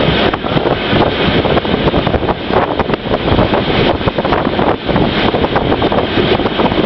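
Running noise of a moving train, with wind buffeting the microphone.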